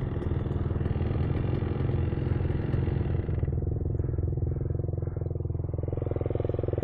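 2024 KTM 300 XC TBI dirt bike's single-cylinder two-stroke engine running at low speed, settling to an idle about three and a half seconds in.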